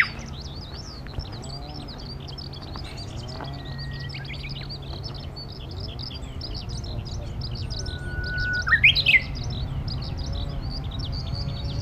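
Japanese bush warbler (uguisu) singing its song once, loudest about eight to nine seconds in: a long steady whistle that breaks into a quick rising flourish. Behind it, Eurasian skylarks keep up an unbroken, rapid high twittering song.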